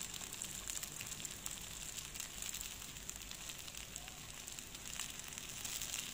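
Takoyaki frying in oil in a takoyaki pan: a steady sizzle with many small crackles and pops.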